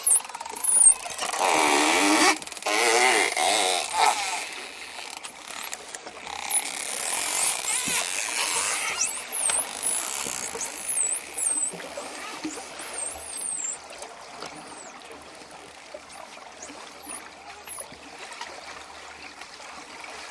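Dolphins whistling: many short high whistles that sweep up and down, with a louder run of lower, wavering squawk-like calls between about one and four seconds in, over a steady watery hiss.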